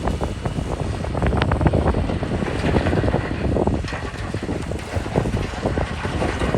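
Heavy diesel earthmoving machinery at work, running with a low rumble while stones rattle and clatter, and wind buffets the microphone.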